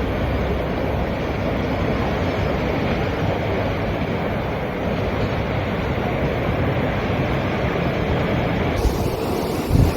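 Sea waves washing against rocks with wind blowing, a steady unbroken rush. About nine seconds in the sound turns brighter and hissier, and a low thump comes just before the end.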